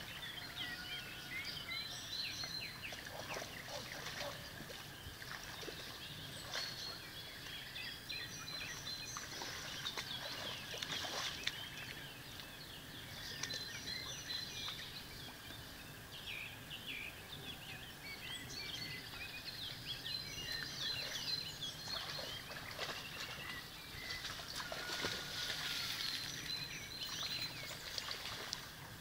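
Several songbirds singing and chirping, short overlapping calls, over a faint steady background hiss.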